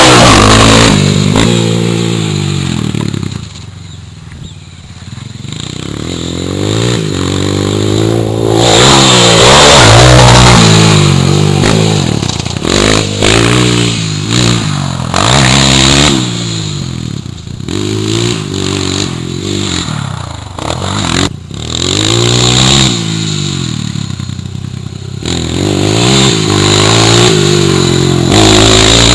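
Honda CRF230 dirt bike's single-cylinder four-stroke engine being ridden hard, its pitch rising and falling again and again with throttle and gear changes. It drops off for a couple of seconds about three seconds in, then picks up again.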